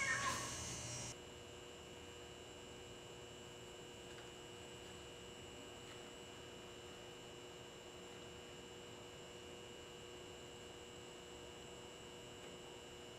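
Faint steady electrical hum with a few thin steady tones over a low hiss. A brief louder noise in the first second cuts off abruptly.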